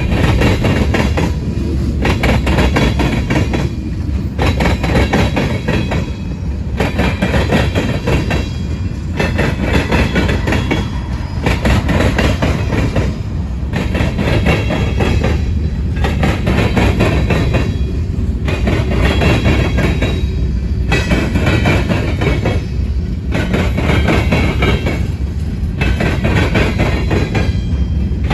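Freight cars of a manifest train rolling past, with steady low rumble and a rhythmic clatter of wheels that swells about every two seconds as each car's trucks go by.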